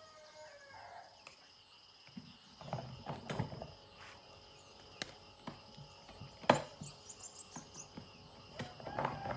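Steady chirring of insects, with a few knocks and clatters of handling; the loudest is a single sharp knock about six and a half seconds in.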